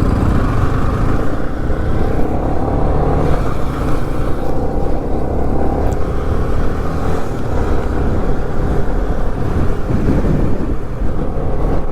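Motorcycle riding at speed: steady engine drone mixed with wind rush on the microphone, without let-up.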